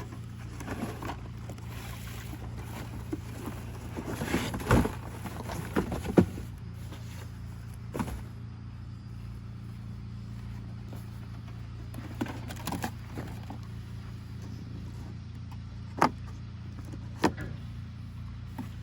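Scattered clicks, knocks and rustles of cardboard packaging being handled and unpacked, over a steady low hum. The sharpest knock comes about six seconds in, and a few single clicks follow later.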